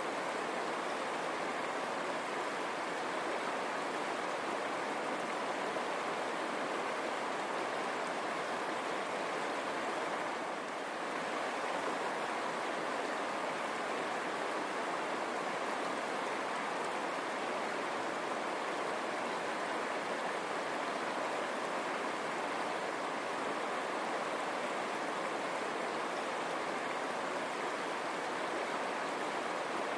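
River water running and rushing over stones, a steady unbroken sound that dips briefly about ten seconds in.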